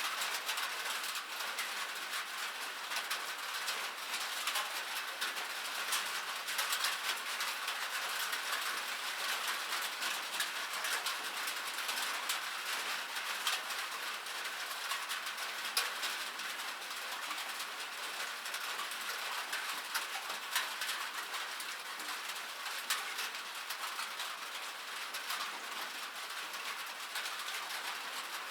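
Steady rain: a dense, even patter of many small drops with fine ticks of individual drops throughout.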